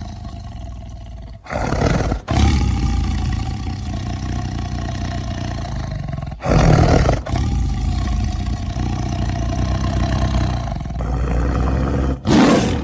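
Bengal tiger roar sound effects: a continuous low, rumbling growl broken by three louder roars, about a second and a half in, about six and a half seconds in, and just before the end.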